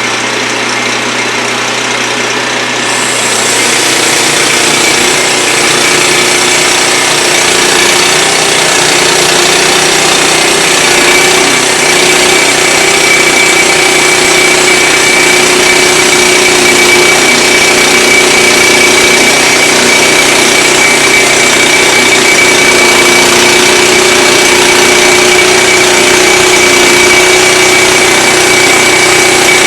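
Wood-Mizer LX25 portable band sawmill running with its band blade sawing through a log. About three seconds in the sound grows louder and hissier, and a steady high whine joins it later.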